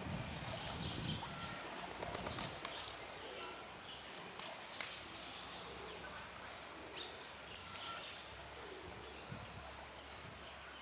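Outdoor birdsong: a short whistled note repeating every couple of seconds, with brief higher chirps, over a steady background hiss. A quick run of sharp clicks comes about two seconds in.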